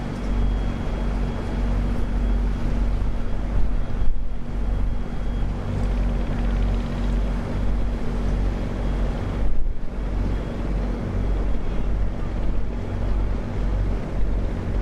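Strong wind buffeting the microphone in pulsing low rumbles, over the steady hum of a sand boat's engine on the river.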